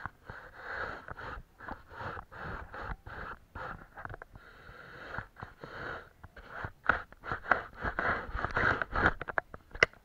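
Watercolour brush stroking and dabbing on paper in short, uneven scratchy strokes, several a second, quicker and sharper for the last few seconds.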